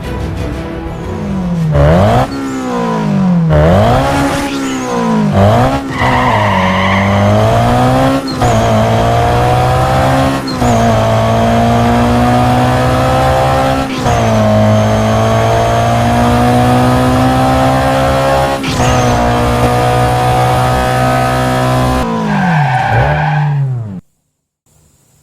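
Car engine revving up through the gears, its pitch climbing and dropping sharply at each shift, then winding down and cutting off suddenly near the end.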